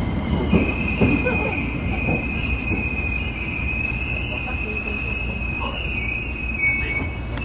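Tokyo Metro 7000-series subway car slowing into a station, heard from inside the car: a low running rumble with a steady high-pitched whine from the wheels or traction equipment, easing slightly toward the end.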